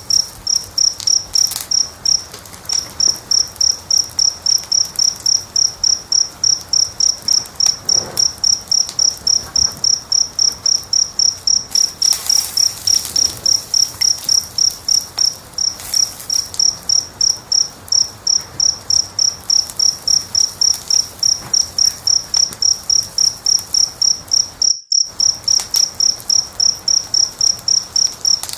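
A cricket chirping loudly and steadily, about three chirps a second, over faint crackling from a wood fire. The audio cuts out completely for a moment near the end.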